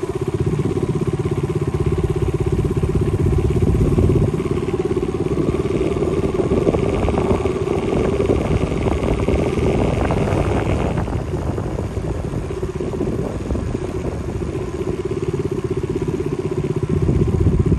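A motor engine running close by, loud and steady with a fast, even pulse, with a higher whine added for a few seconds in the middle.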